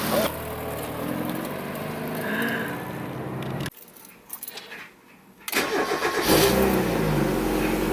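Mazda Miata's four-cylinder engine running, then after a short silence starting up and revving briefly as it catches, settling into a smooth run: a healthy startup.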